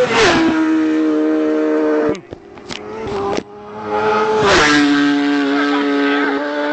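Racing superbike engine at high revs. The note steps down twice, and around the middle it drops away briefly with a few sharp cracks before picking up again.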